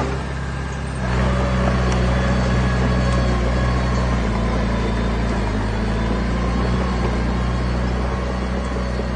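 Diesel engine of heavy earthmoving equipment running steadily under load, picking up and getting louder about a second in.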